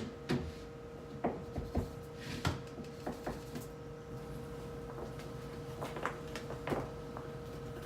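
Scattered knocks and clatters of items and parts being handled while cleaning out a refrigerator, about ten light impacts spread over the stretch, over a steady hum.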